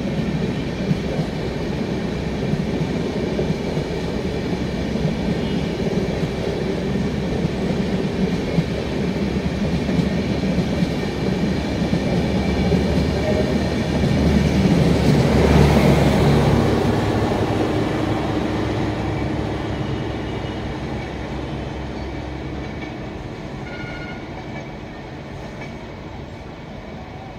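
Janshatabdi Express passenger train running through a station at speed: steady wheel-on-rail rumble with irregular clickety-clack. It grows to its loudest a little past halfway, then fades away steadily.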